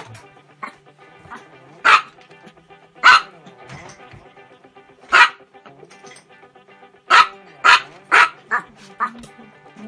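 A small Chihuahua barking in short, sudden barks: a few spaced ones, then a quick run of five near the end.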